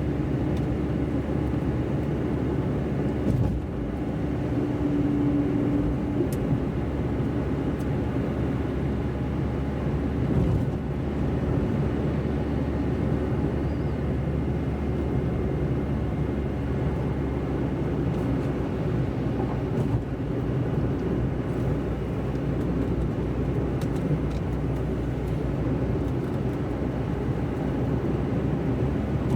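A car driving on a wet road, heard from inside: a steady low rumble of engine and tyres, with a faint hum tone over the first few seconds.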